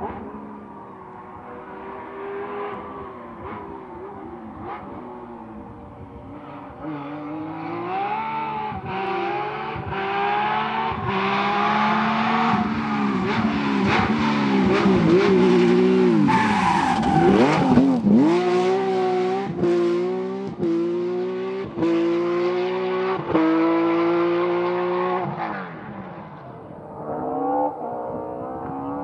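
A rally car on a special stage, its engine revving hard and rising in pitch through several gear changes as it approaches, passing close by about halfway through with a sharp drop in pitch, then pulling away and fading. Near the end another car's engine is heard coming in.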